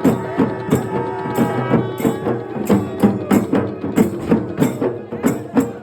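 Loud rhythmic percussion music: drum and jingling strikes, about three a second, over sustained pitched tones.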